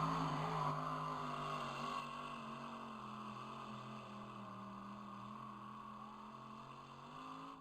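Pulling tractor's engine running at a steady pitch, fading gradually as it draws away.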